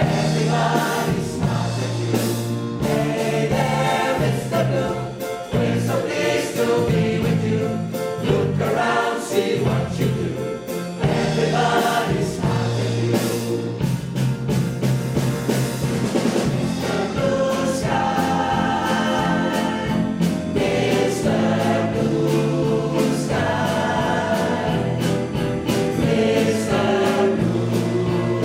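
A choir singing a pop song with sustained bass notes beneath.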